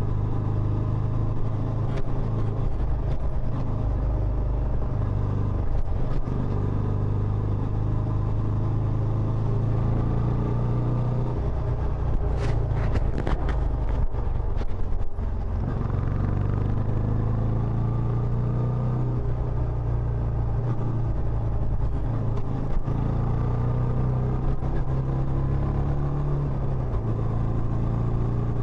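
Benelli Imperiale 400's single-cylinder engine running steadily through its stock exhaust, with a brief dip about halfway and a few light clicks.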